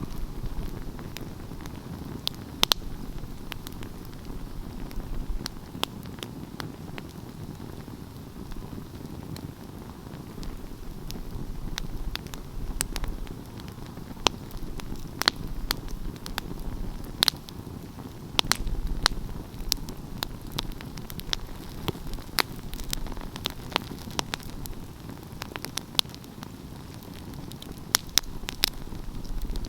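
Wood fire burning, with a steady low rushing of the flames and irregular sharp crackles and pops from the burning logs, sometimes several in quick succession.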